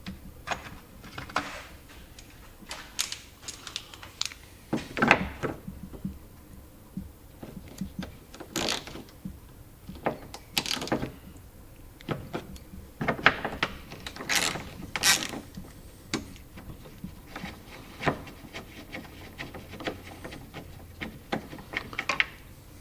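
Hands and tools working a tight Jeep Grand Cherokee taillight and its fastenings loose: irregular clicks and knocks, with several longer creaking scrapes.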